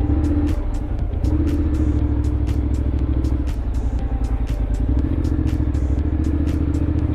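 Honda X-ADV 750's parallel-twin engine running at low, steady revs, with a small rise in engine note about a second in.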